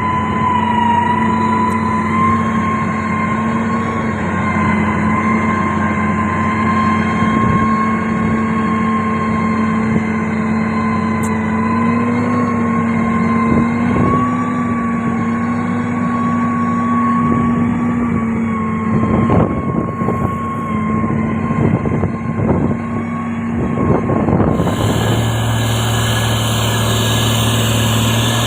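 Heavy road-construction machine's diesel engine running steadily, with a few knocks and clanks past the middle. Near the end the engine sound changes abruptly to a different, lower hum with added hiss.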